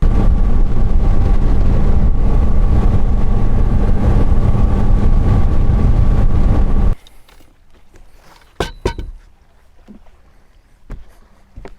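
Boat's outboard motor running at speed, with heavy wind rumble on the microphone; the sound cuts off abruptly about seven seconds in. A few light knocks follow.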